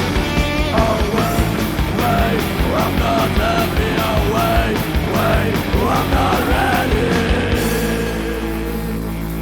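Rock band playing drums, bass and guitar, with a bending, wavering lead line over the top. About three-quarters of the way through, the drums stop and the band lets a final held chord ring out, slowly fading.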